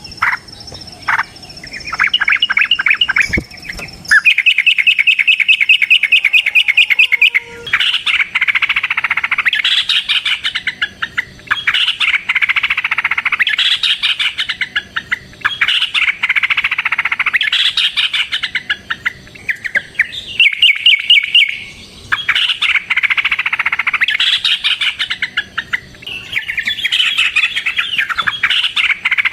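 Yellow-vented bulbul (trucukan) singing: long, fast chattering rolls of repeated notes in bursts of a few seconds, with short breaks between them. A thin steady high buzz runs under the first few seconds.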